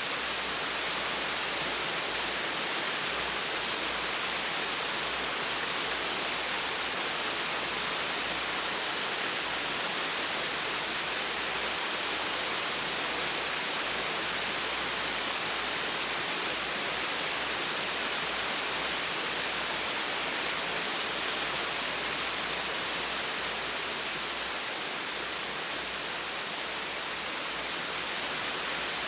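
Small waterfall splashing steadily, an even rush of falling water with no breaks.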